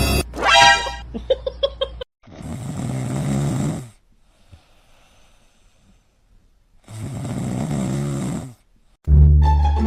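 Two long, rasping snores about five seconds apart, with quiet in between. A short pitched sound comes just before them.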